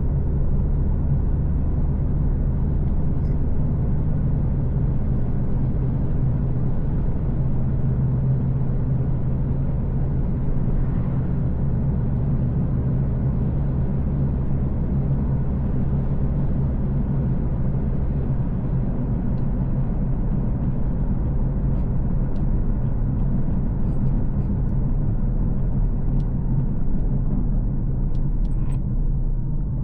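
Car driving along a road: a steady low engine drone with road rumble, the engine note shifting lower about two-thirds of the way through.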